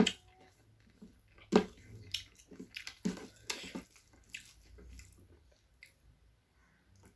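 Close-miked eating sounds of chicken curry and rice being chewed: scattered wet smacks and clicks of the mouth, the sharpest about a second and a half in.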